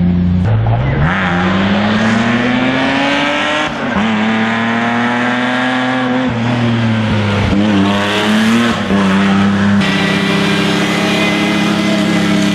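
Classic racing car engine under hard acceleration, its revs climbing and then dropping sharply at upshifts, with a few quick throttle blips and a steady high-rev run near the end.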